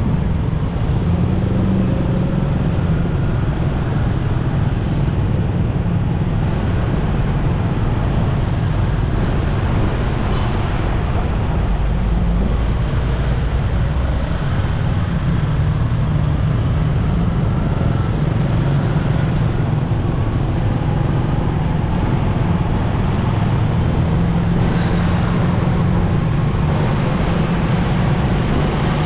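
Riding a motorcycle in road traffic: steady engine and road noise, heaviest in the low end, with the sounds of surrounding vehicles.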